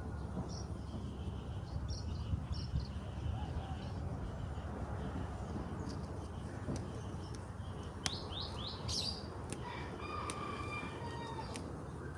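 Small birds chirping in a string of short high calls, with a quick run of falling notes past the middle, over a steady low rumble of background noise.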